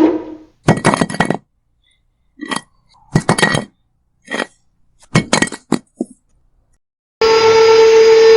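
A series of short, hard clinks and clacks, in five or six quick clusters, with small bricks being loaded on a home-built miniature tractor. At the start the tractor's small motor winds down with falling pitch, and it starts up again with a steady whine near the end.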